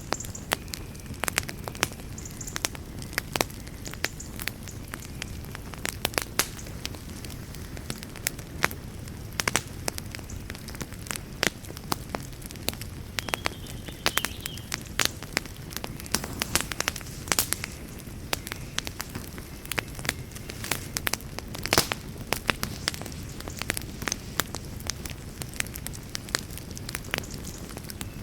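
Wood fire burning in a fireplace: frequent sharp crackles and pops at irregular intervals over a steady low rumble of the flames.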